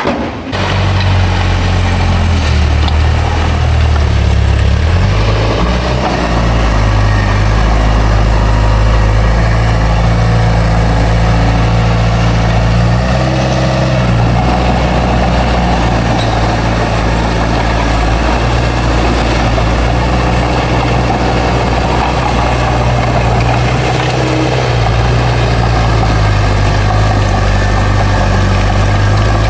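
Bulldozer's heavy diesel engine running steadily. Its note shifts up and down a few times.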